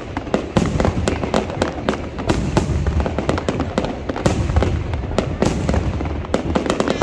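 New Year's Eve fireworks display: a continuous, irregular string of bangs, several a second, over a low rumble.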